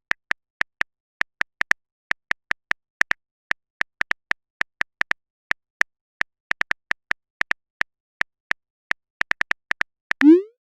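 Rapid, irregular clicks of an on-screen phone-keyboard typing sound effect, a few taps a second, as a message is typed out. A short rising swoop sound comes just before the end.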